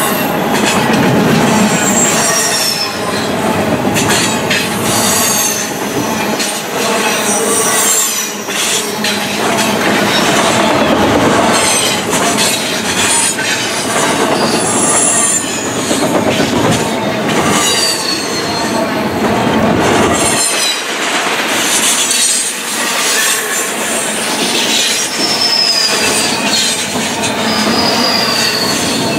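Double-stack intermodal container train's well cars rolling past at close range, steel wheels squealing on the rails in repeated high whines over a steady rolling rumble, with scattered knocks.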